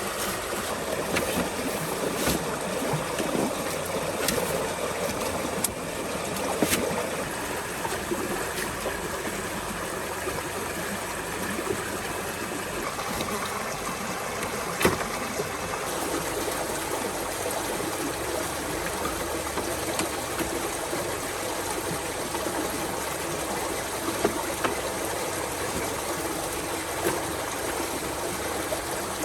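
Steady running water, like a stream, with a few scattered sharp clicks.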